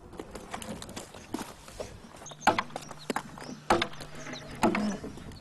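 Axe chopping a log: sharp wooden strikes about once a second, starting about halfway in.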